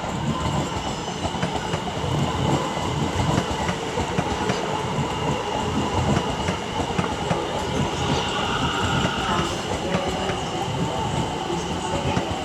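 London Overground Class 710 electric multiple unit running slowly into a terminus platform, its wheels clicking over the rails, with a steady high tone alongside.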